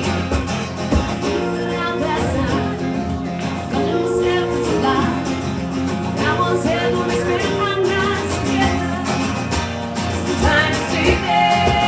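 A band playing a song live, with a voice singing over the instruments.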